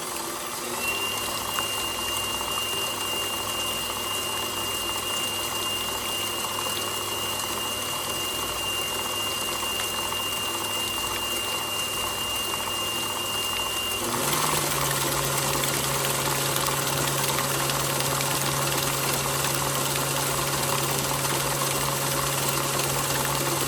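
KitchenAid Professional 6000 HD stand mixer with its DC motor running steadily, turning a flex edge beater through butter and eggs, with a thin high whine. About 14 seconds in, the hum steps up in pitch and loudness and the whine stops, then the mixer runs on steadily.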